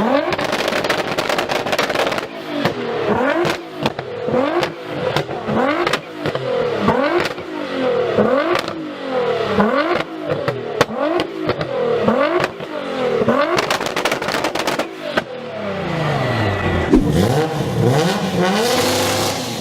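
Car with a loud aftermarket exhaust being revved hard again and again, the pitch climbing and falling about every three-quarters of a second, with sharp pops and crackles between revs. Near the end a slower rev drops and climbs again.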